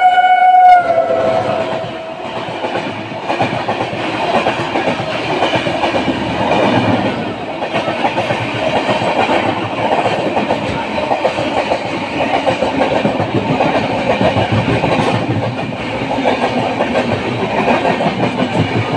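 An Indian Railways train's horn sounds at the start, its pitch sagging slightly as it ends about a second in. It is followed by the steady clatter of the train's wheels over the rails as it passes.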